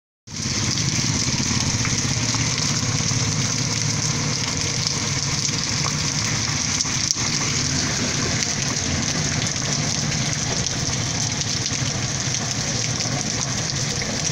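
Torrential rain pouring down steadily onto pavement and flooded puddles, a constant hiss with a low rumble underneath.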